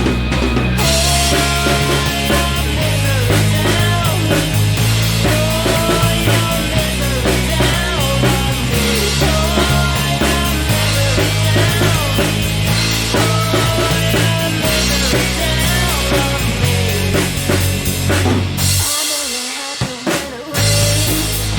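Rock band playing an instrumental passage: drum kit, bass notes and a lead melody that bends in pitch. Near the end the bass and drums drop out for about a second and a half before the band comes back in.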